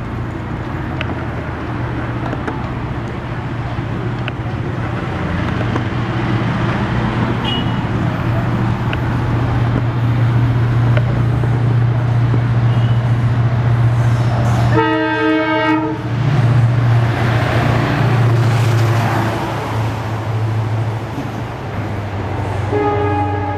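A train running close by with a loud, steady low drone that grows louder over the first several seconds. Its locomotive sounds one horn blast of about a second roughly two-thirds of the way through, and starts another just before the end.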